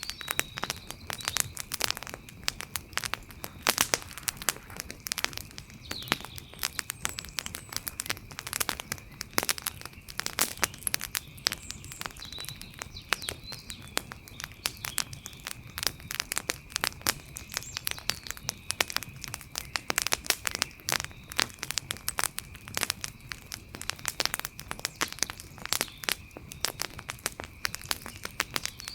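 Wood fire crackling and popping: a dense, irregular run of sharp cracks, some much louder than others. Underneath is a thin steady high tone, with a few short chirps now and then.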